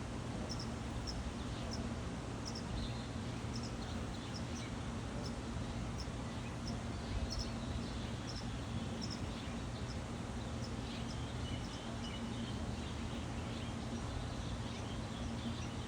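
Small birds chirping: short high chirps repeated about once or twice a second for the first ten seconds or so, then a brief stretch of softer twittering, over a steady low background hum.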